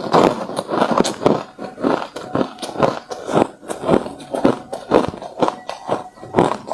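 A person chewing hard, refrozen crushed ice, each bite a loud crunch, in a steady rhythm of about two to three crunches a second.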